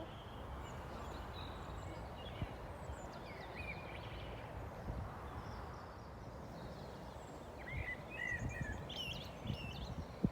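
Birds chirping in short calls, once about three seconds in and again in a quick run near the end, over a steady low outdoor rumble.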